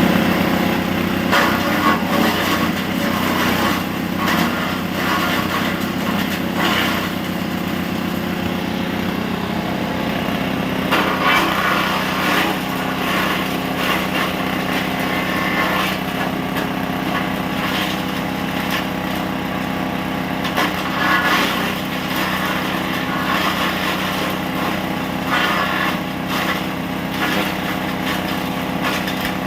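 Livestock forage chopper run by a small engine at steady speed, with repeated bursts of chopping noise lasting a second or two as material is fed through the blades.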